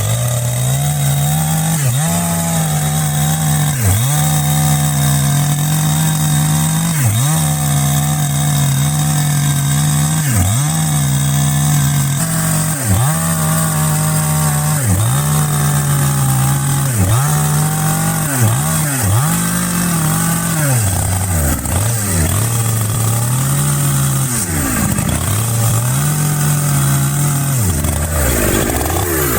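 Chainsaw running at high revs while cutting into tree roots at the base of a stump. Its engine note drops briefly and recovers every one to three seconds, most often about two thirds of the way through.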